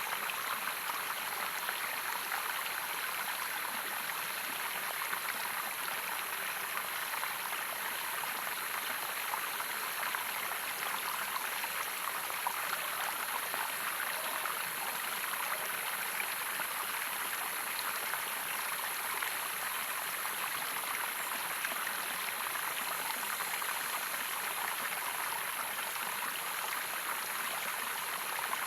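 Running water of a stream, a steady rushing and splashing with no breaks. A steady high-pitched hiss sits above it throughout.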